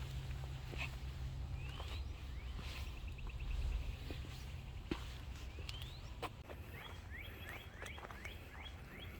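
Wild birds calling: a couple of short rising whistles, a fast trill a little after two seconds in, and a quick run of chirps in the last two seconds, over a low rumble with a few sharp clicks.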